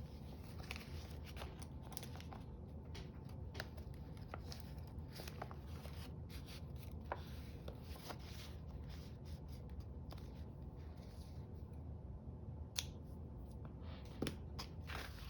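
Scissors snipping through paper in a string of short cuts and clicks, over a low steady hum.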